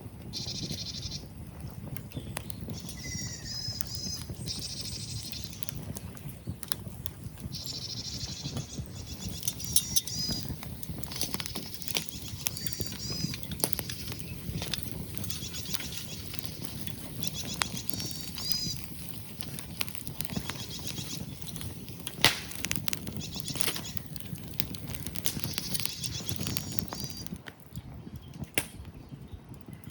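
Wood fire crackling in a small steel fire pit: dense irregular crackles, a few sharp pops and a low rumble of burning, with small birds chirping in bursts now and then.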